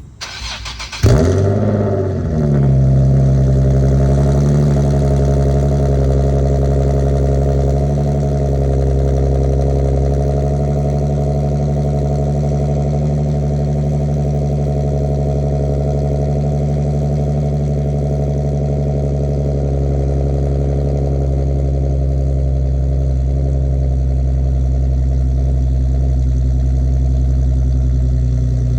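Nissan 370Z NISMO's 3.7-litre V6 cold-starting through non-resonated test pipes and a full Greddy exhaust: about a second of starter cranking, a loud flare as it catches, then it settles within a couple of seconds into a steady cold idle.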